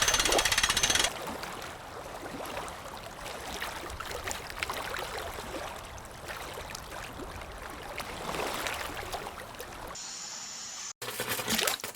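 Water splashing and gurgling, with scattered small splashes. A fast mechanical rattle cuts off about a second in.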